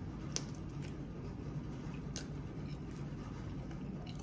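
Close-miked chewing of a mouthful of dipped Italian beef sandwich: soft wet mouth clicks, two sharper ones about half a second and two seconds in, over a steady low hum.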